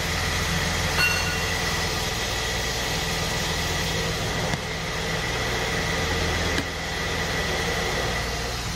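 BMW E34's stroked inline-six (a 2.5 enlarged to 3 litres) running steadily and evenly at a constant speed, its vacuum leaks fixed and its ECU reflashed. A light click comes about a second in.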